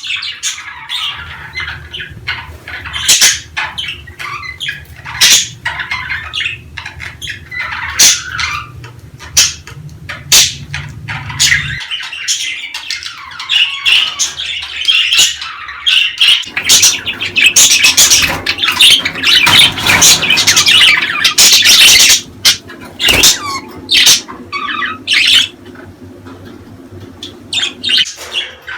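Budgerigars chattering, with sharp chirps and squawks that thicken into a dense warbling chatter about two-thirds of the way through.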